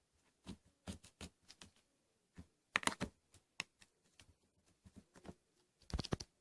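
Slime being squished and poked by hand, giving irregular sharp clicks and pops, with denser clusters about three seconds in and near the end.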